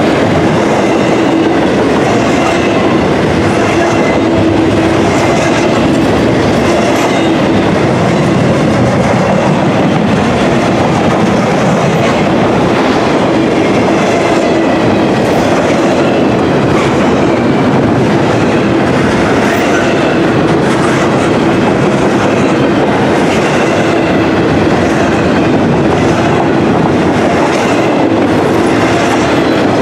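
Double-stack intermodal container well cars rolling past close by: a loud, steady rumble of steel wheels on rail with regular clicking from the wheels.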